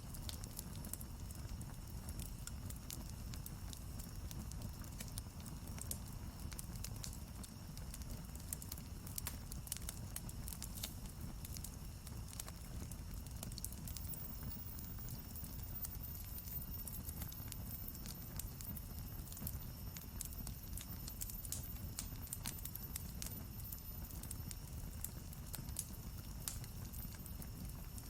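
Campfire burning, wood crackling and popping in many small sharp snaps over a steady low rush of the flames.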